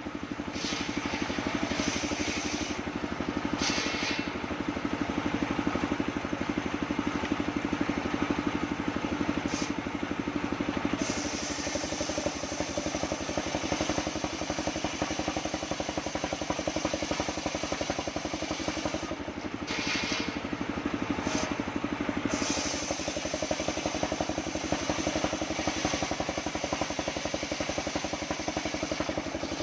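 Engine of a homemade circular sawmill running steadily, with the top of the sound dropping away briefly a few times.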